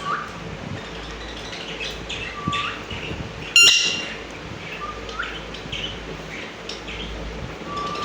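Parrots chirping, with a short rising whistle repeated about every two and a half seconds. A single loud, harsh squawk comes about three and a half seconds in.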